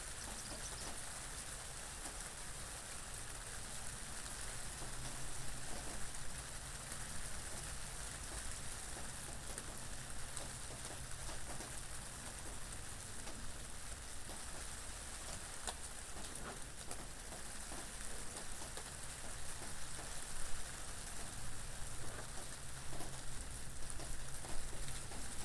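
Steady rain falling, a dense patter of drops, with a low wind rumble beneath.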